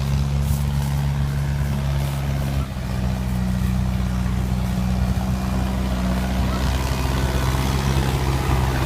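Yanmar 1185 tractor's four-cylinder turbo diesel engine running steadily under load while pulling a loaded grain cart, with a brief dip in level about two and a half seconds in.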